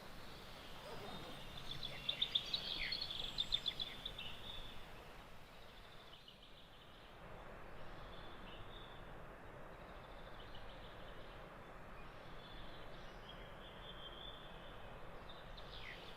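Birds singing and chirping over a steady outdoor background hiss, with a louder rapid series of notes about two to four seconds in and softer calls later.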